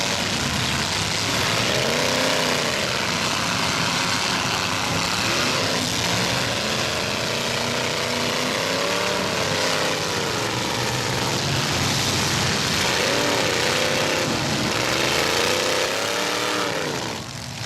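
Several demolition derby trucks' engines running at once, revving up and down again and again over a steady din.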